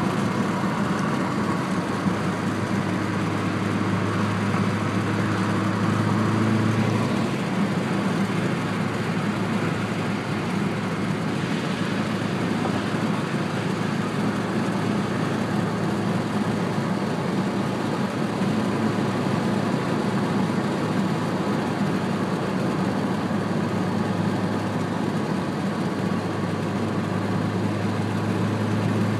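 A 2006 Subaru Impreza's flat-four engine running steadily through a TurboXS aftermarket exhaust, with a low exhaust hum that eases about seven seconds in and returns near the end.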